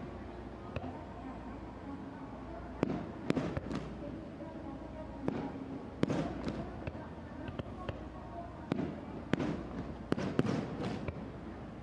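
Aerial fireworks shells bursting overhead: a string of sharp bangs at uneven intervals, several in quick clusters, each with a brief echoing tail.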